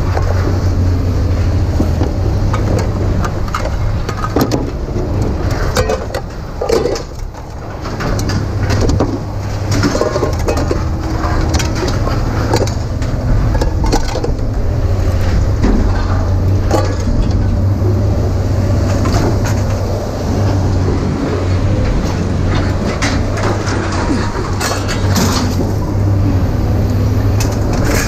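Steady low rumble of a vehicle in motion, with irregular rattles and clatters over it.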